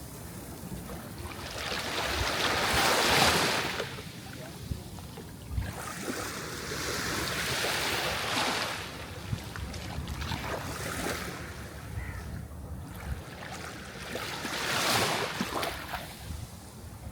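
Sea waves rolling in and breaking, the wash swelling and fading about four times, with the loudest surge a few seconds in.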